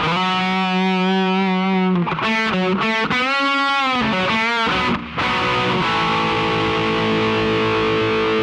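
Intro music: distorted electric guitar playing sustained notes with bends, then long held chords.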